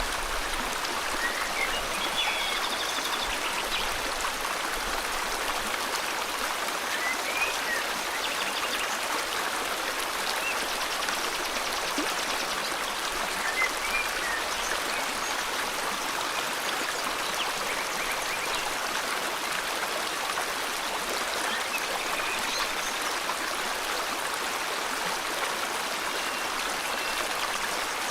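River water flowing steadily, with a few faint, short bird chirps here and there above it.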